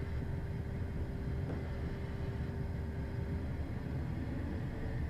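Steady cockpit noise of a Beechcraft Premier I taxiing, its twin Williams FJ44 turbofans at taxi power: a low, even rumble with a steady hum that fades about three and a half seconds in.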